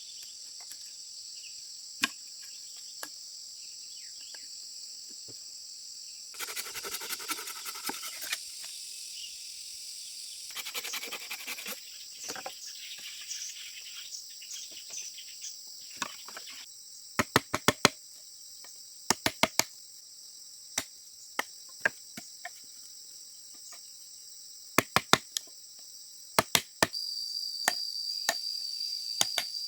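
Crickets trilling steadily throughout, with sharp knocks in quick clusters of two to four strokes in the second half and brief rustling earlier.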